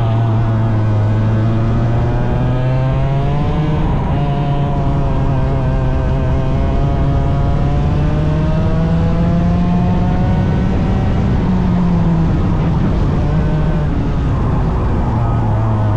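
A 100cc racing engine running hard through a qualifying lap. Its pitch climbs, dips about four seconds in, climbs slowly again, then falls back near the end as the throttle comes on and off.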